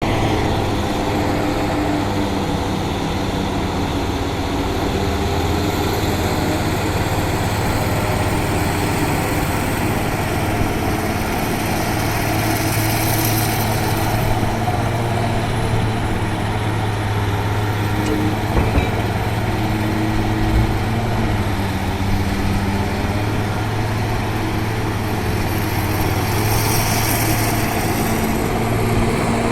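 Large diesel excavator engine running steadily, its pitch stepping up and down now and then as it works, with a couple of short knocks about two-thirds of the way through.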